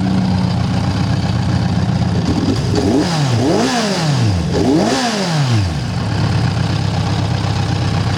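A 2014 Kawasaki Z1000's 1043cc liquid-cooled inline-four idling steadily. A few seconds in, the throttle is blipped two or three times in quick succession, the revs rising and falling each time before settling back to idle.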